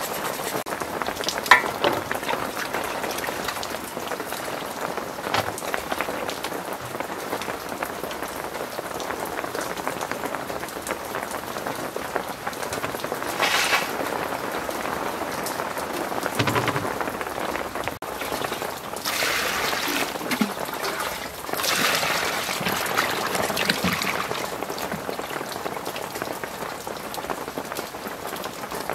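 Heavy rain falling steadily on surrounding surfaces. Over it come a sharp knock about a second and a half in and several bursts of water splashing and handling noise from washing fish and herbs in metal and plastic basins.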